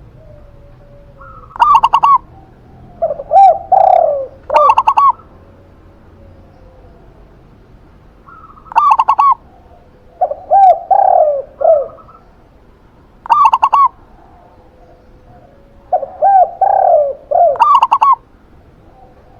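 Zebra dove (perkutut) and spotted dove (tekukur) cooing in three bouts several seconds apart, each bout a run of short higher and lower coo notes.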